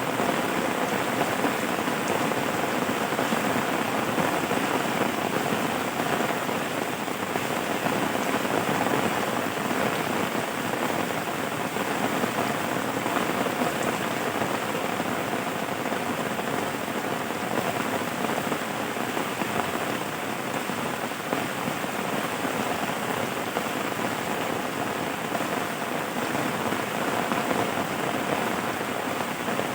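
Steady rain falling: an even, unbroken hiss of drops with no change in strength.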